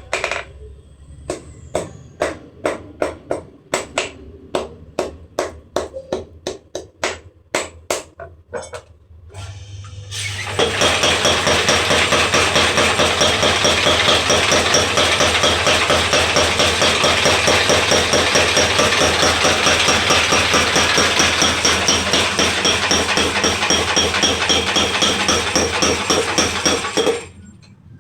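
Hammer blows on hot metal at a blacksmith's anvil, about two ringing strikes a second for the first nine seconds. Then a fast, steady, machine-like run of rapid hammer impacts begins about ten seconds in and cuts off suddenly near the end.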